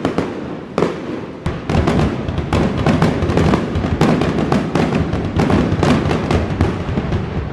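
Aerial fireworks bursting overhead: a few separate bangs at first, then from about a second and a half in a dense, continuous run of booms and crackles.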